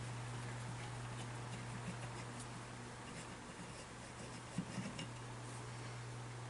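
Faint, scattered small clicks and taps, with a brief cluster of light knocks about four and a half seconds in, over a steady low hum.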